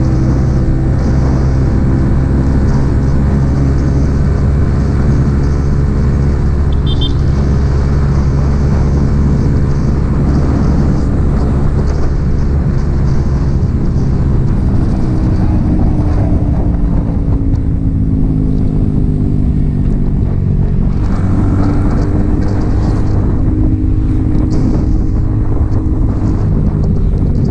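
Yamaha XSR 155's single-cylinder engine through an aftermarket M4 exhaust, running steadily while riding. The engine note sinks slowly in pitch through the middle and rises again about three quarters of the way in.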